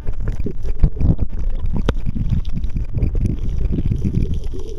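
Wind buffeting the microphone on an open fishing boat, a steady low rumble, with a single sharp click about two seconds in.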